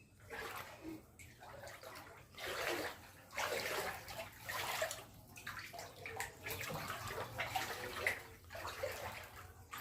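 Floodwater sloshing and splashing, coming in uneven surges.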